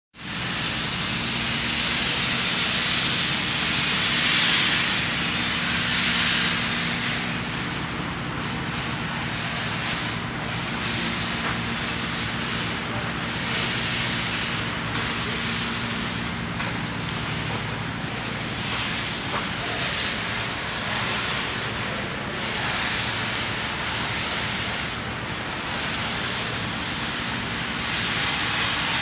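Steady outdoor background noise with a low engine-like hum underneath, like traffic or machinery running.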